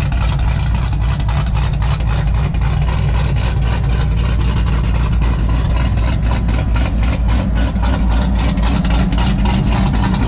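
A car engine idling with a steady low rumble and a fluttering exhaust.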